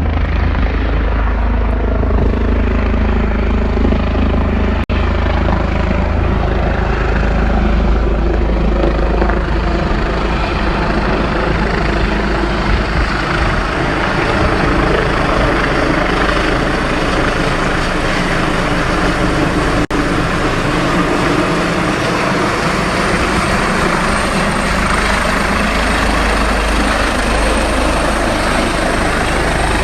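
Helicopter coming down to land on a hospital helipad, its rotor and engine running loud and steady. The sound grows fuller and stronger through the middle of the descent, with two very brief gaps.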